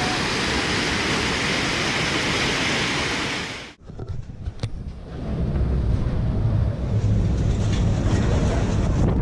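Storm at sea: wind and breaking waves make a loud, steady rushing noise that cuts off abruptly a little under four seconds in, followed by gusting wind buffeting the microphone over a low rumble.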